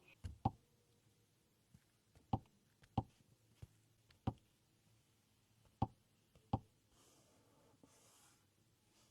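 Quiet car cabin with a handful of short, irregular clicks and knocks, the first two about half a second in and the rest spread out over the following seconds.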